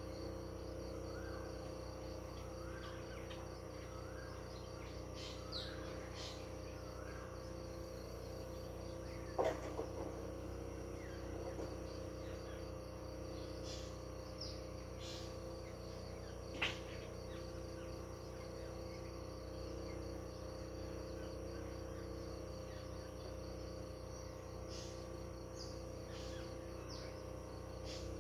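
Countryside ambience of a steady, pulsing insect trill, typical of crickets, with scattered short bird chirps over it. A run of rising chirps about a second apart opens it, and two sharper, louder calls come about a third of the way in and just past halfway.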